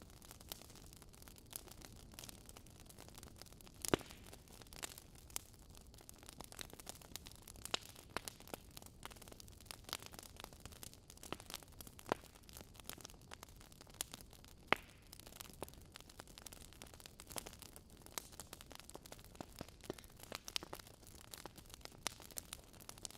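Fire crackling: irregular small pops and snaps over a faint hiss, with a sharper pop about four seconds in and another near fifteen seconds.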